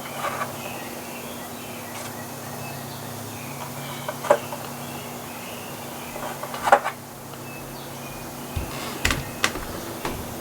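A few light clicks and taps from small items being handled, likely the epoxy tubes and their caps as the two parts are dispensed, over a steady low hum. The taps come about four seconds in, again near seven seconds, and as a quick cluster near the end.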